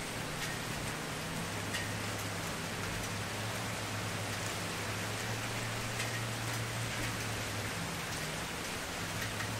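Campfire burning with a steady hiss and scattered small crackles and pops, over a low steady hum.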